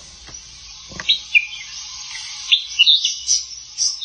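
Red-whiskered bulbul singing: a run of short, sharp chirping notes over a steady hiss.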